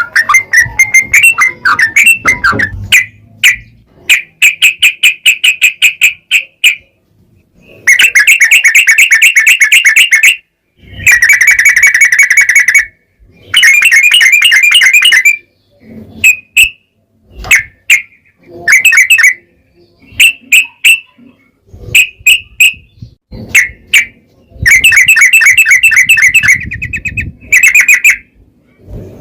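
Yellow-vented bulbul (trucukan) singing in long, rapid chattering trills of one to three seconds each, separated by short pauses, with single short calls scattered between them in the middle stretch.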